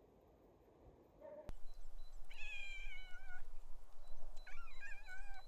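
A domestic cat meowing twice, two drawn-out calls of about a second each that slide down in pitch.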